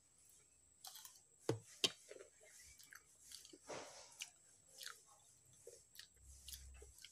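A person chewing a mouthful of food, with small wet mouth clicks and two sharp clicks a little over a second in.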